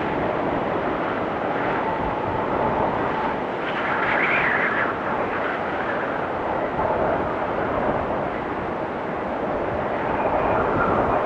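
Blizzard wind blowing steadily, with a stronger gust swelling about four seconds in and carrying a higher whistle, and another rise near the end.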